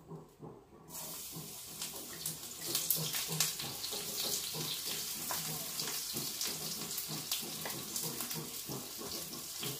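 Chopped garlic and onion sizzling in hot oil in a frying pan. The sizzle starts suddenly about a second in as the pieces hit the oil, then holds as a steady crackling hiss.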